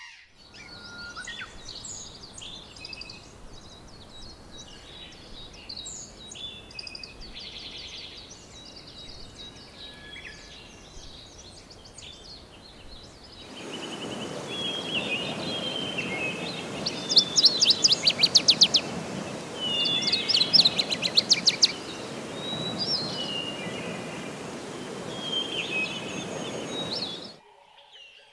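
Several wild birds calling and singing, with short chirps and whistled notes. About halfway through, a second recording with a louder background hiss begins, carrying two fast rattling trills. The sound cuts off shortly before the end.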